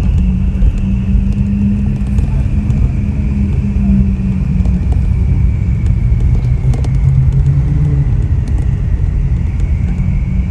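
Ferrari 488 Pista's twin-turbo V8 through a Ryft aftermarket exhaust, running at fairly steady revs: a loud, steady low drone.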